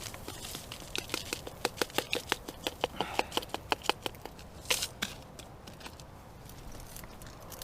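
A quick, even run of light clicks, about six a second for some three seconds, then a short rustle.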